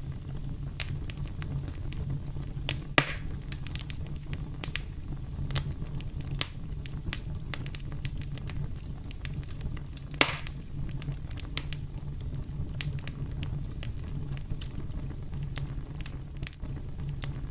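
Campfire crackling: a steady low rumble of burning with frequent sharp pops and snaps, two louder pops about three seconds in and about ten seconds in.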